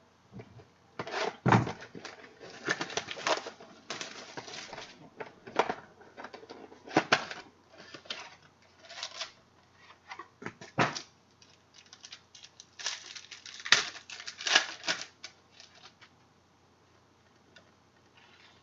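Trading cards and their packaging being handled: irregular rustling rasps, flicks and clicks, fading out a few seconds before the end.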